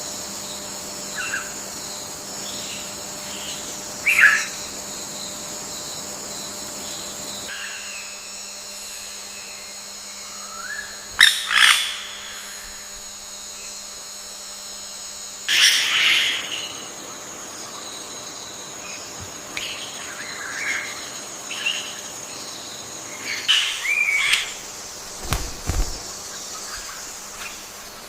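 Forest ambience: a steady high insect drone throughout, with short bird calls breaking in now and then. The loudest calls come about 4, 11, 16 and 24 seconds in.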